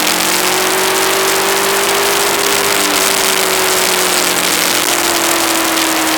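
Aprilia ETV1000 Caponord's V-twin engine running at road speed under heavy wind and road noise on the camera mic, its pitch rising slightly then easing off.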